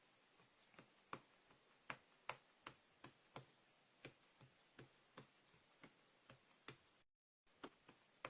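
Faint, irregular light tapping, about two to three taps a second: a Versafine ink pad being dabbed again and again onto a stamp to ink it. A brief gap of dead silence comes about seven seconds in.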